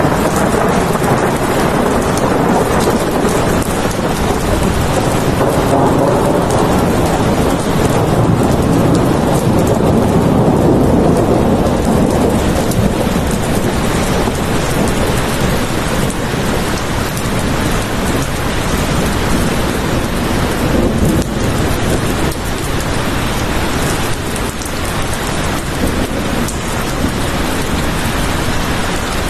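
Steady heavy rain, with a long low rumble of thunder that swells over the first half and fades after the middle.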